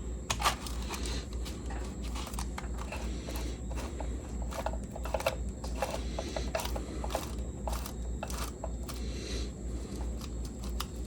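Craftsman drill press running, with a low hum that pulses about four times a second, and scattered light clicks and scrapes as metal parts are jeweled (engine-turned) under it.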